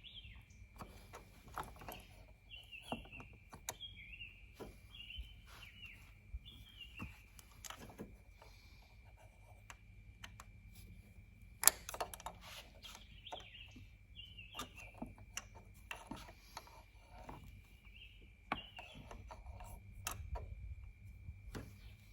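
Small birds chirping in short repeated calls over a faint steady high tone, with scattered light clicks and taps and one sharp knock about twelve seconds in.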